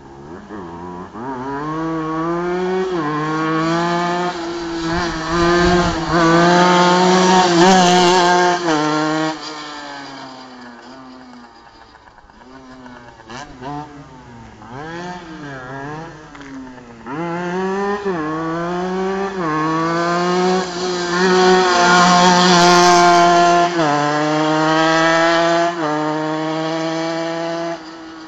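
Honda NSR 125cc two-stroke single-cylinder engine on a homemade shifter go-kart, revving up through the gears in stepped climbs of pitch. It is loudest about 8 seconds in and again about 22 seconds in, falling away between the two, consistent with the kart driving two laps past.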